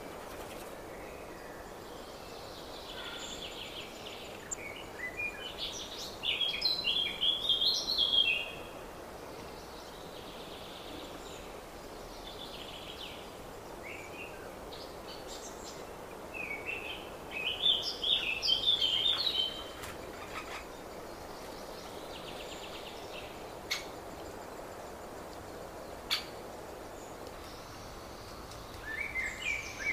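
Songbirds singing in spring: one bird repeats a loud song phrase of about two and a half seconds three times, roughly every eleven seconds, with fainter songs from other birds between its phrases. Two brief clicks come in the second half.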